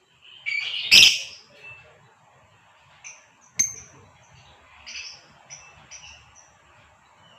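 Female lovebird calling: a loud, harsh, high chattering burst about a second in, then a run of short, high chirps, with a sharp click about halfway through.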